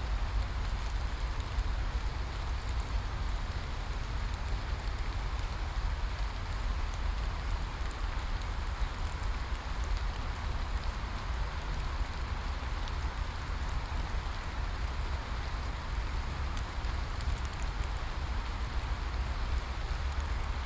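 Steady rain falling: a dense, even hiss with a low rumble underneath and scattered sharp ticks of individual drops.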